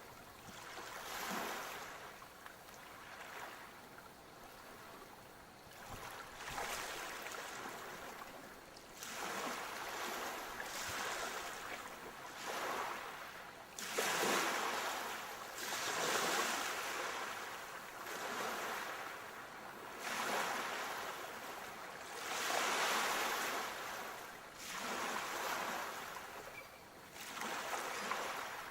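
Sea waves surging and washing in, one swell every two to three seconds, louder in the second half.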